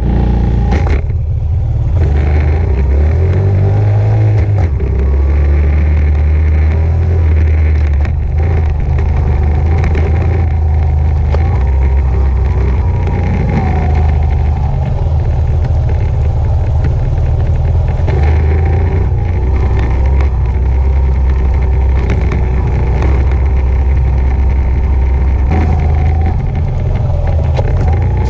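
Honda CRF70 dirt bike's small single-cylinder four-stroke engine running as it is ridden, its pitch rising and falling with the throttle, over a heavy low rumble.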